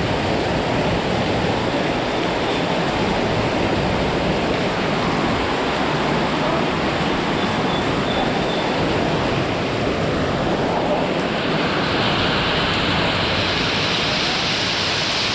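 Heavy rain pouring down in a steady, loud hiss. About twelve seconds in, the sound turns brighter and more hissing.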